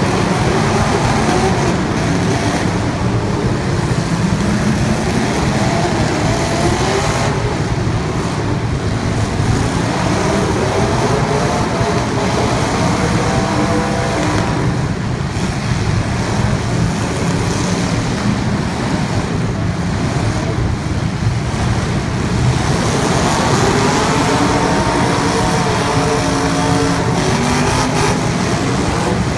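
Race car engines running under load, their pitch repeatedly climbing and falling over a few seconds at a time.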